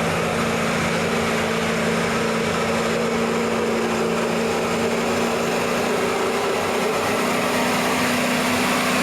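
An engine running steadily at a constant speed, its low hum holding an even pitch.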